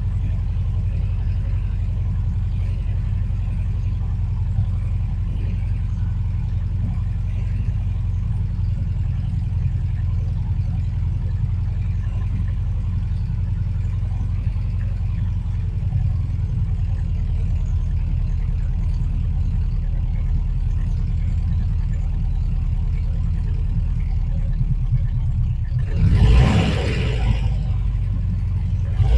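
Porsche 914 engine idling steadily on a cold start, held at the higher cold idle of about 1,200 rpm. Near the end a brief, louder rush of noise rises over the idle.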